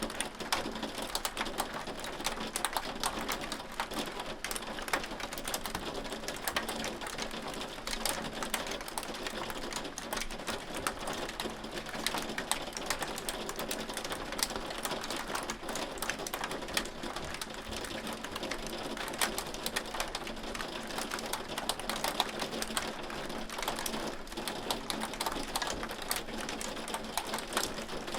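Hail falling steadily: a dense, irregular patter of hailstones clicking and ticking on a hard surface, with a rain-like hiss underneath.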